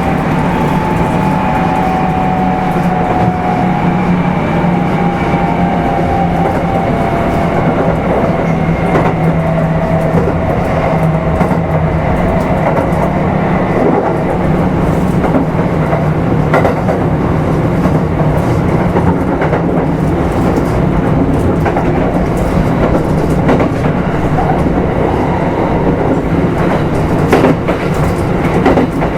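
Kintetsu 5200 series motor car running on the rail: steady low hum with rail-joint clicks throughout. A motor and gear whine falls in pitch over the first dozen seconds as the train slows.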